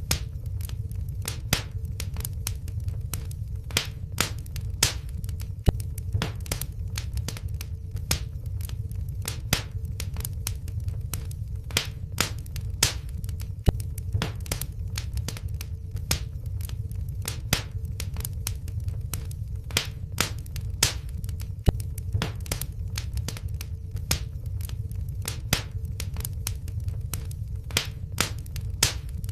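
Wood fire in a fireplace crackling: irregular sharp pops and snaps, several a second, over a steady low rumble of burning, with a faint steady hum.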